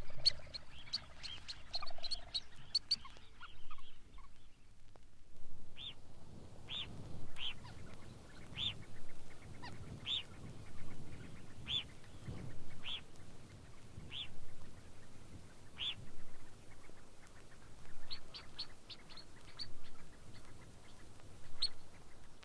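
Grey phalarope calling: short, sharp, high calls, first in a quick burst, then singly about once a second, with a few brief flurries near the end.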